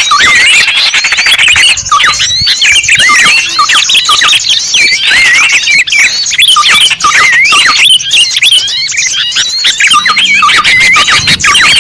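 A dense, loud chorus of small birds chirping and twittering, with many quick rising and falling whistled notes overlapping without a break: a small-bird lure call recording.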